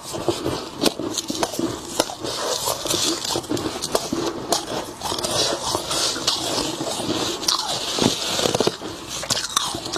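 Soft, snowy freezer frost being bitten and chewed close to the microphone: a dense, continuous run of crisp crunches and crackles.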